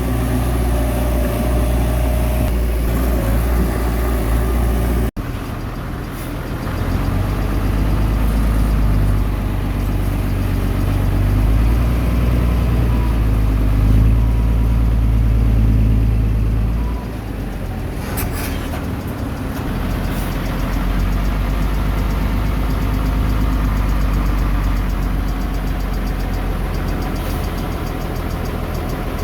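Heavy diesel engine of earthmoving machinery running under load, a strong low rumble. It cuts out for an instant about five seconds in, runs louder for the next ten seconds or so, then settles lower, with a few short clanks just after.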